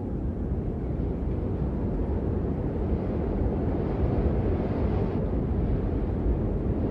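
Blizzard wind blowing, a steady low rumble of noise that grows a little stronger about halfway through.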